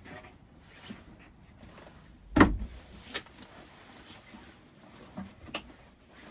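A few scattered knocks and clicks, with one loud, deep thump about two and a half seconds in and a sharp click soon after, like things being handled or shut in a small enclosed space.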